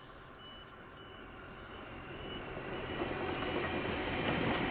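KiwiRail diesel-hauled container freight train approaching, its locomotive and wagons growing steadily louder as it draws near.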